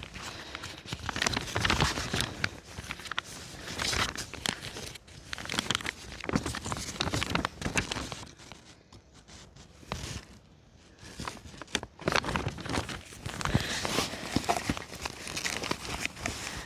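Footsteps crunching through forest leaf litter and twigs, irregular crackling steps, with a lull of about three seconds past the middle.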